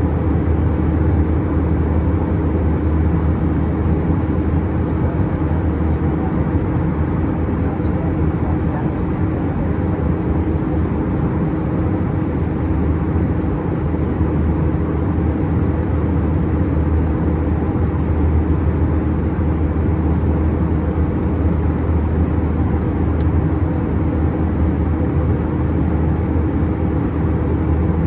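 Steady in-flight cabin noise inside an Airbus A320-211 airliner: a constant rush of airflow with a low, even engine hum underneath, unchanging throughout.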